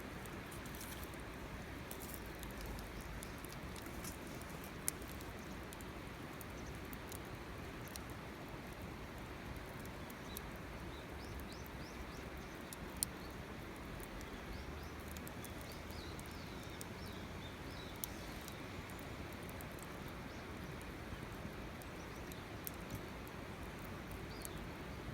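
Wood fire crackling: scattered sharp pops and ticks, three of them louder, over a steady low background noise.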